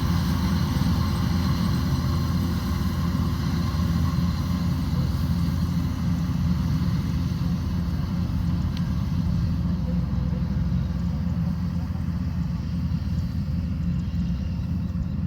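Combine harvester's diesel engine and threshing machinery running steadily at working speed.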